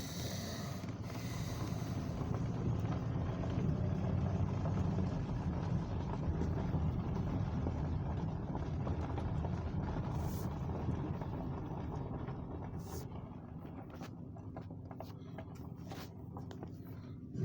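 Car driving noise: a steady low rumble of engine and road that builds over the first few seconds and slowly eases off in the second half.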